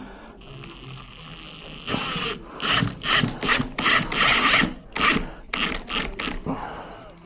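Metal ratcheting clicks in quick loud bursts, several a second, during work on a door lock, after a faint steady high whine at the start.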